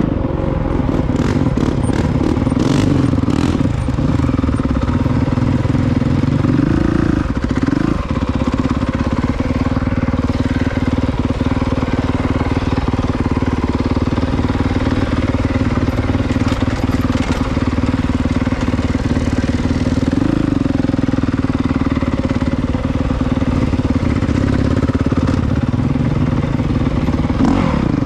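Honda CRF450R dirt bike's single-cylinder four-stroke engine running steadily under way, its revs rising and falling briefly a couple of times, with a few sharp clicks in the first seconds.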